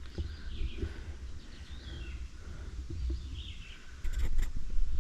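Birds chirping intermittently over a steady low rumble. The rumble gets louder about four seconds in, with a few sharp clicks.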